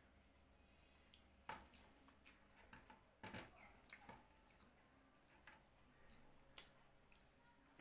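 Near silence with faint eating sounds: soft, wet mouth noises of chewing biryani eaten by hand, and fingers picking rice off a tray. A few sharper clicks stand out about a second and a half in, a little after three seconds, and about six and a half seconds in.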